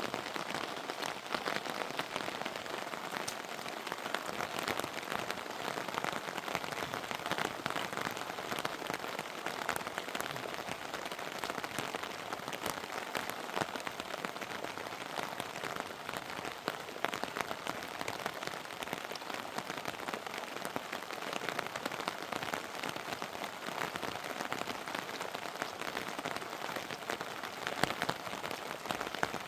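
Steady heavy rain with many individual drops ticking and pattering on a surface.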